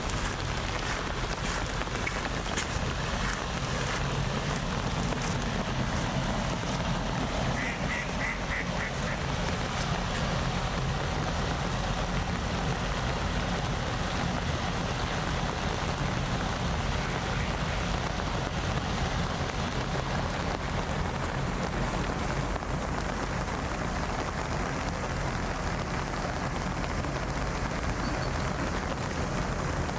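Steady outdoor rain and wind noise, with light ticks of drops in the first few seconds. About eight seconds in comes a short run of about five quick, high calls.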